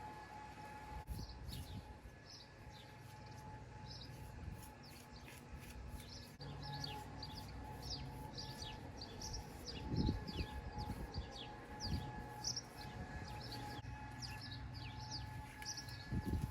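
Small birds chirping, many short falling notes, over a faint steady hum and a low rumble. There is a brief low thud about two-thirds of the way through.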